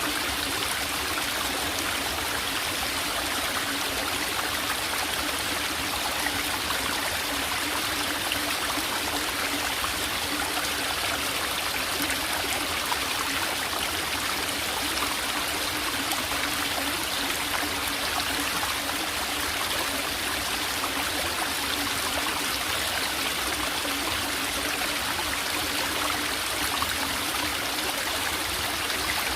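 Small forest valley stream trickling and babbling steadily over rocks, an even rush of water with no breaks.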